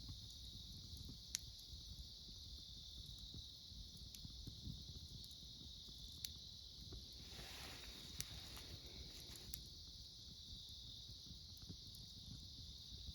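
Wood fire burning low with a soft flicker and a few sharp crackles, under a steady high chorus of autumn insects. A soft hiss from the fire rises for about two seconds in the middle.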